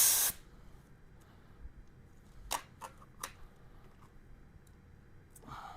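Air hissing out of a freshly mounted motorcycle tire's valve as its pressure is let down, cutting off suddenly just after the start; then a few light clicks about two and a half to three seconds in.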